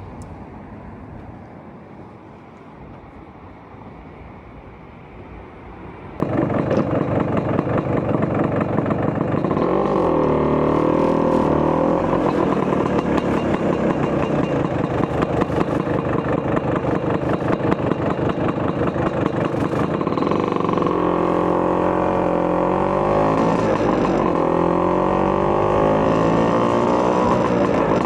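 Vespa PX200's two-stroke single, with a 210cc Polini cylinder kit and a Malossi expansion chamber exhaust, bursting into loud running about six seconds in, then idling and revving, its pitch rising and falling several times.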